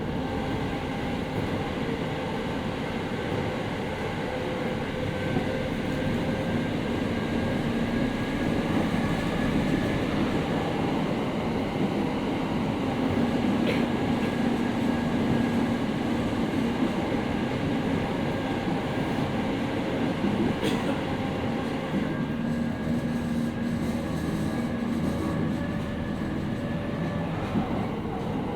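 Interior running sound of a JR East 701 series 5500-subseries electric train: steady wheel-and-rail noise with held motor tones. Two short clicks, about 14 and 21 seconds in.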